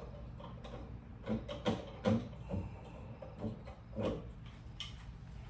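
Hand rivet gun being handled, giving a run of irregular clicks and knocks, about seven over a few seconds.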